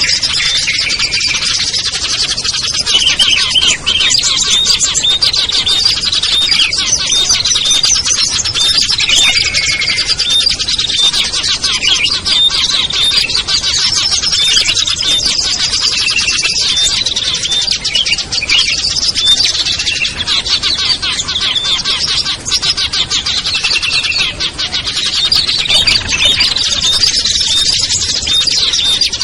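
Dense, unbroken chorus of many small songbirds chirping and trilling over one another, a layered lure recording made to draw small wild birds down.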